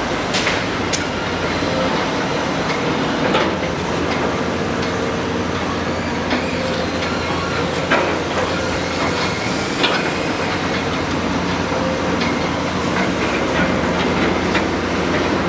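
Excavator's diesel engine running steadily, with scattered sharp knocks and clanks from the working machine.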